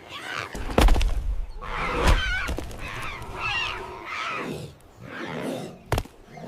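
Animal calls: a string of irregular, wavering cries, with a sharp knock about a second in and another near the end.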